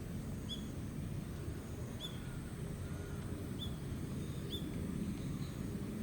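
A small bird chirping: about five short, high chirps at uneven intervals, over a steady low rumble.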